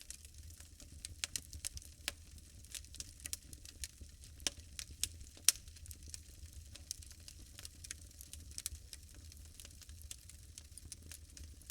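Logs burning in a fireplace, crackling with irregular sharp pops over a low steady rumble, one pop louder than the rest about five and a half seconds in.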